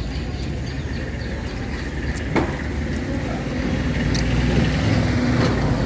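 Steady outdoor background noise, a low rumble with hiss, with a single sharp click about two and a half seconds in.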